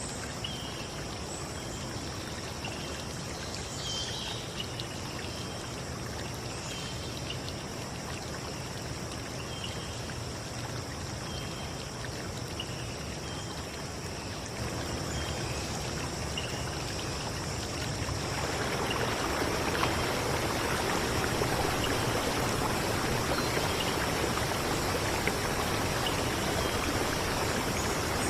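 Stream water running steadily, growing louder about two-thirds of the way in. A steady high-pitched tone and short high chirps repeating sound over the water.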